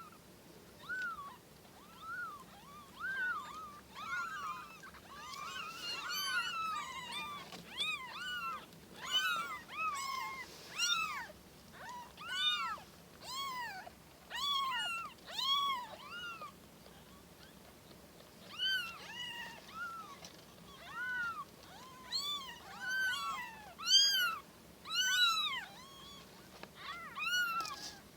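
Kittens meowing over and over in short, high-pitched cries, several voices overlapping at times, with a brief lull a little past the middle: the calls of hungry kittens.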